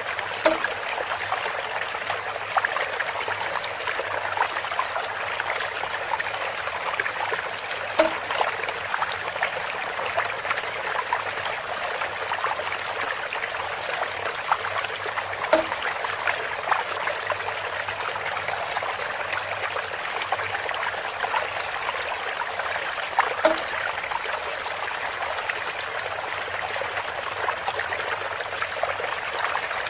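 Water trickling steadily through bamboo, with a short hollow pitched knock about every seven to eight seconds, four times.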